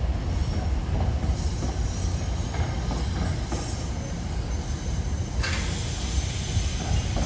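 Train rolling slowly through the terminal, a steady low rumble with faint high wheel squeals; a hiss comes in suddenly about five seconds in.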